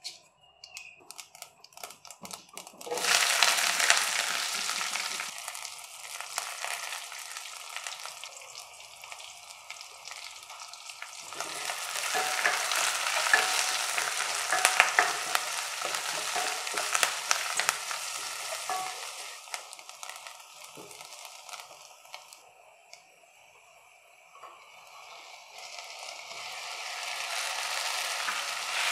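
Food frying in hot oil in a stainless steel pan. There are a few light clicks, then a loud sizzle starts about three seconds in as mustard seeds splutter among the whole spices. After that, sliced onions and green chillies sizzle while a spatula stirs them, and the frying dies down briefly before swelling again near the end.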